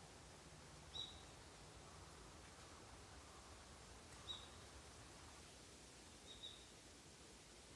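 Faint outdoor background with three short, high chirps from a bird: one about a second in, one a little past four seconds, and one at about six and a half seconds.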